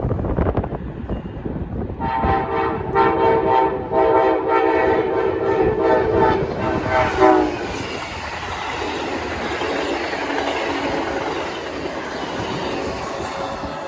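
Amtrak passenger train passing: a multi-chime air horn sounds for about five seconds, its pitch dropping as the locomotive goes by. The horn gives way to the steady rumble and clatter of the passenger cars rolling past on the rails.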